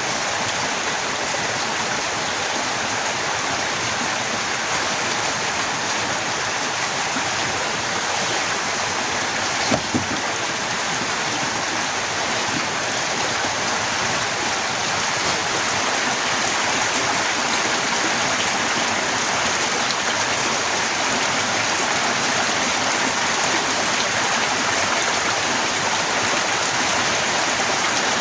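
Torrential rain falling steadily, a dense even hiss. A brief sharp double knock comes about ten seconds in.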